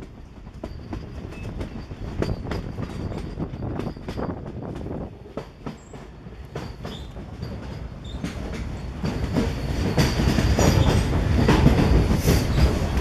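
Moving passenger train heard from inside its carriage: the wheels click over the rails and the coach rattles, with a steady rumble. The noise grows clearly louder about nine seconds in.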